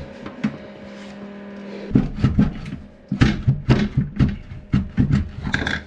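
A faint steady hum, then from about two seconds in a rapid series of knocks and bangs, about four a second, as a stuck toilet pan is rocked and worked loose from the floor.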